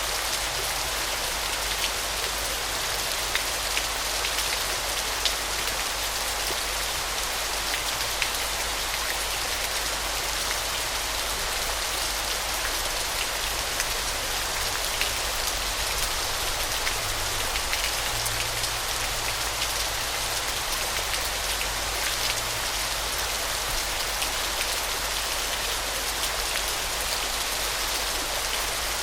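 Waterfall: a steady hiss of falling water, dense with small, sharp splash and drop ticks, unchanging throughout.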